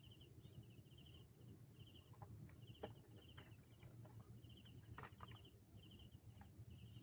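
Faint crickets chirping, short pulsed chirps repeating about twice a second, with a couple of faint clicks.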